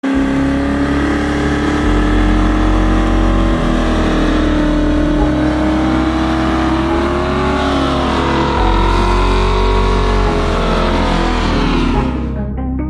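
Vehicle engine running at high, fairly steady revs, its pitch wavering slightly up and down, with a low tone that shifts in even steps beneath it. It cuts off abruptly near the end.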